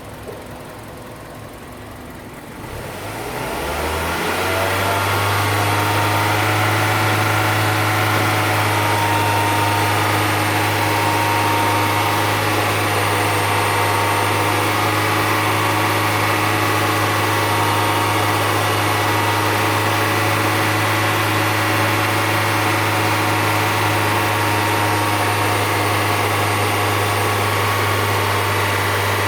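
Hyundai Sonata's LPI (LPG) engine, running with the air conditioning on, is revved up about three seconds in and held at a steady raised RPM. This is a load test to watch the AC high-side pressure and the condenser fan response.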